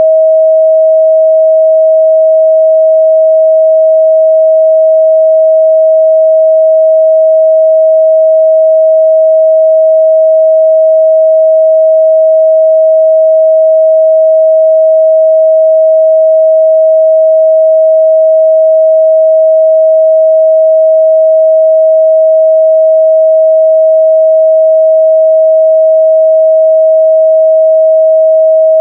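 Steady, loud 637 Hz sine-wave test tone, one pure unchanging pitch.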